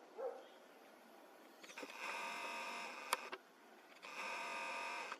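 A small electric motor whirring in two steady runs of about a second and a half each, with a sharp click near the end of the first run.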